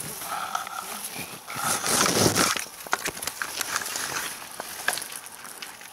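Rustling of grass and plants, with scattered crackles and a louder rustle about two seconds in.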